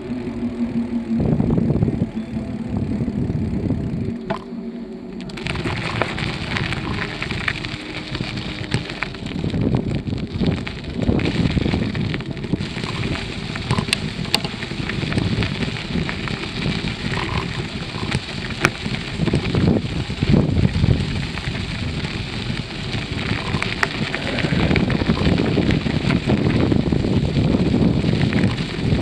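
Wind rushing and buffeting over the microphone, with tyre and bike rattle, while riding a bicycle. A low droning hum under the first few seconds fades out, and about five seconds in the rushing noise grows louder and brighter.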